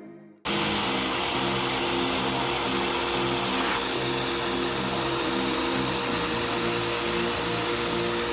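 Steady, loud rushing air noise from a seat-cleaning machine, such as a vacuum or upholstery extractor, that starts suddenly about half a second in, with background music underneath.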